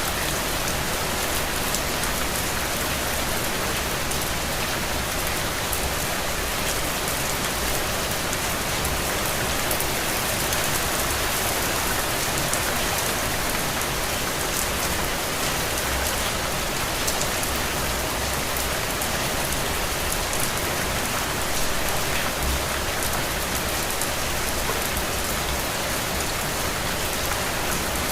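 Steady rain falling, a dense even hiss with countless small drop ticks.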